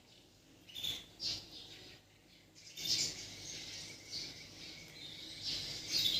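White-rumped shama (Bornean murai batu) singing in short, high-pitched phrases: a couple of brief notes about a second in, then a fuller run of phrases from about halfway.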